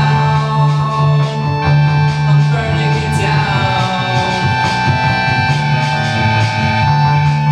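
Live rock band playing an instrumental passage: electric guitar and bass held over a steady drum beat.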